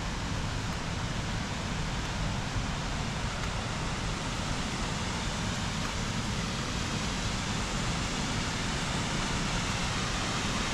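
Steady rushing roar of a large waterfall, unbroken throughout.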